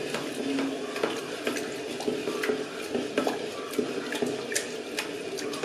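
A ladle stirring thickening porridge inside a heating electric kettle, giving irregular clicks and scrapes against the kettle's inside, several a second.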